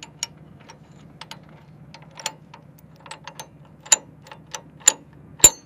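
Irregular sharp clicks and clinks from hand work on an aircraft panel's fasteners, some fifteen in all, the loudest near the end, over a faint steady low hum.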